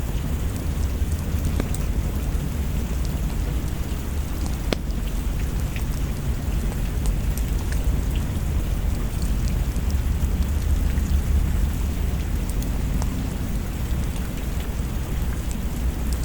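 Steady rain with a deep rumble of thunder underneath that swells around the middle, and scattered sharp ticks of drops.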